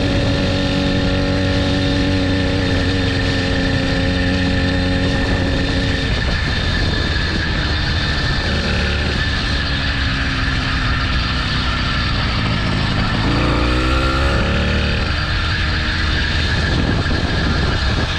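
Small 80cc motorbike engine running steadily at first, then with its pitch shifting, including a short rise in revs around three-quarters of the way through.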